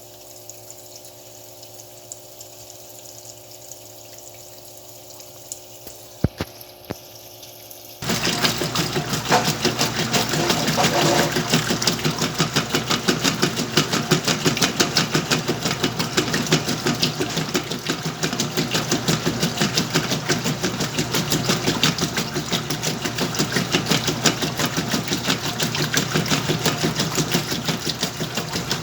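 Whirlpool washing machine filling with water, a low steady hum with a couple of clicks. About eight seconds in, its motor starts agitating with a loud, fast, clattering rhythm that keeps going.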